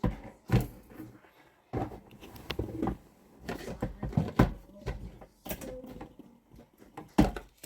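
Irregular knocks, thunks and clatter of hard objects being handled and set down, with a few sharper bangs among quieter rattling.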